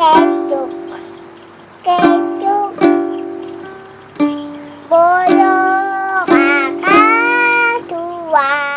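Ukulele strummed in single strokes, each chord ringing and fading, with a high voice singing a melody over it, mostly in the second half.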